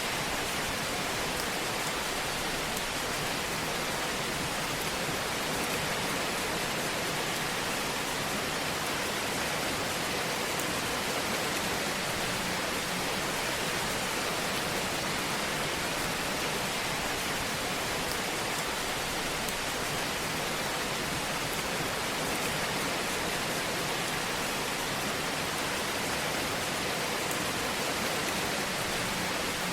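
Fire burning in a fireplace: a steady, even hiss with soft crackling.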